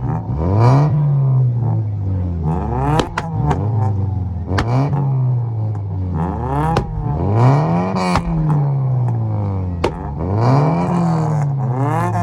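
A modified car engine being revved hard again and again, about four or five times. Each time the pitch climbs and then falls back, and sharp pops crack out between the revs.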